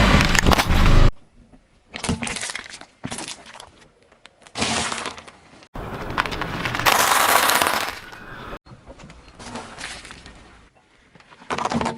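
Crunchy objects cracking and breaking as a car's tyres crush them, with a glassy, shattering edge. It comes as a run of separate bursts that start and stop abruptly, with quiet gaps between them.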